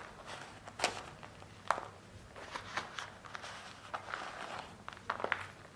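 Soft gym chalk and cornstarch paste being squeezed and crumbled by hand, giving irregular soft crackles and clicks with a light rustle between them rather than a crisp crunch.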